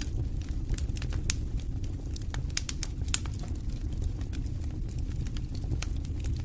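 Wood campfire crackling, with many sharp pops at irregular intervals, a cluster of them about halfway through, over a steady low rumble.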